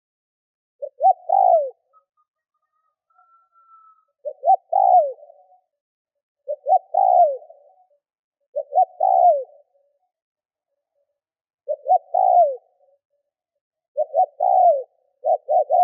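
Spotted dove cooing, the urging coo of a decoy bird used to provoke wild doves: short phrases of a few quick notes ending in a longer falling note, repeated about every two seconds and coming closer together near the end.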